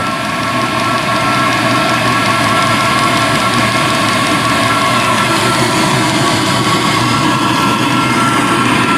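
Plastic-shell diesel air heater running flat out after its teardown and cleaning: a steady, loud blower whine over the rush of hot air and burner noise.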